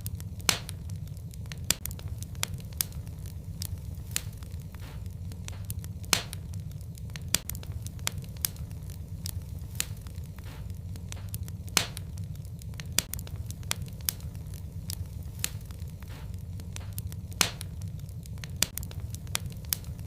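Wood fire burning in a fireplace: a steady low rumble of flame with frequent sharp crackles and pops, a few louder snaps standing out.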